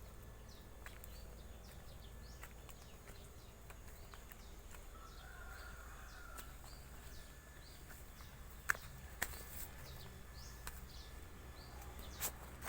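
Wild birds calling: short, high, falling notes repeated steadily, with a brief lower warbling call about halfway through. A few sharp clicks come near the end.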